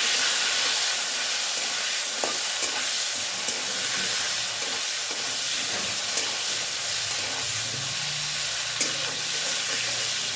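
Food sizzling steadily in hot oil in a kadai, with a few sharp clicks of a utensil against the pan.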